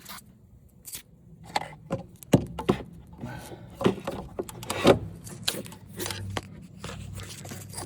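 Irregular light knocks, clicks and rubbing over a low steady hum.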